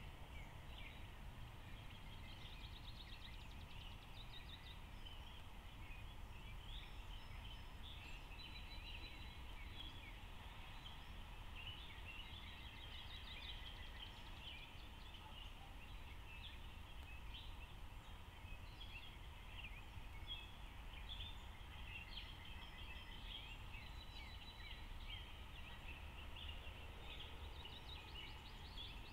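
Birds chirping and trilling, many short high calls overlapping without a break, over a faint steady low rumble.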